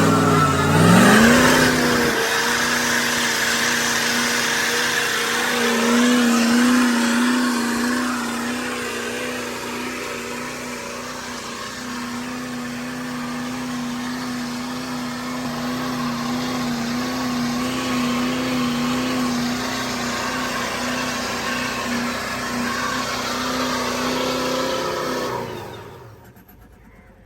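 Truck engine revving up, then held at high, nearly steady revs for about twenty seconds under a broad rushing noise, before it drops away suddenly near the end.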